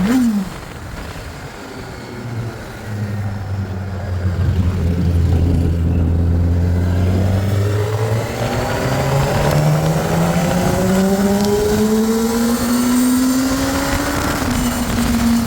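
Heavy motorcycle engine: a quick falling pitch at the very start, then a low steady run, then a long steady climb in pitch as it accelerates, easing off slightly near the end.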